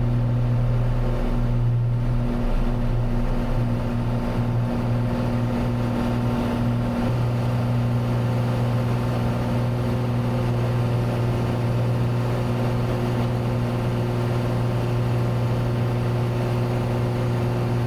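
Cessna 182T's Lycoming IO-540 six-cylinder engine and propeller running steadily at takeoff power, just after rotation and into the initial climb. The steady drone changes slightly in tone about seven seconds in.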